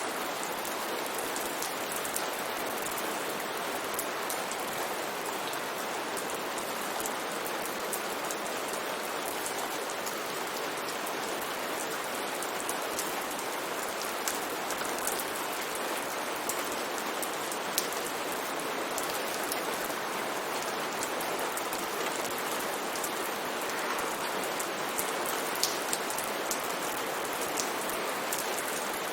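Steady rain falling: a dense, even hiss with scattered sharper drop taps standing out now and then.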